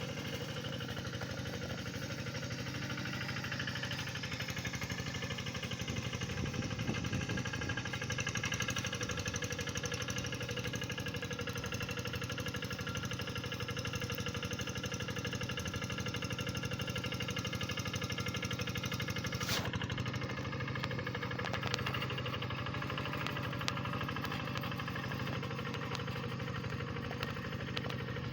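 Tractor engine running steadily with an even low drone, and a single sharp click about two-thirds of the way through.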